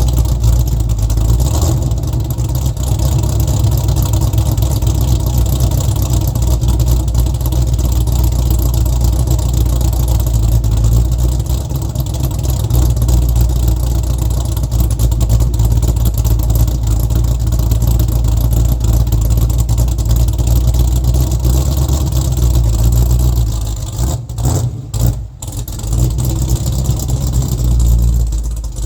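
LS V8 engine in a Mach 1 Mustang running steadily through its exhaust, with a deep, steady low note. Near the end the sound drops out briefly a few times.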